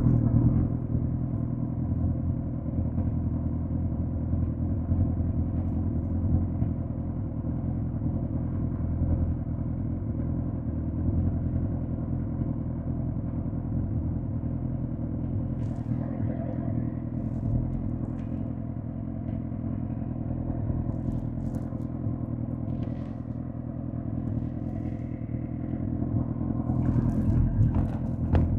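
2005 Suzuki GSX-R1000 K5's inline-four engine running steadily at an even pitch, a little louder at the start and again near the end.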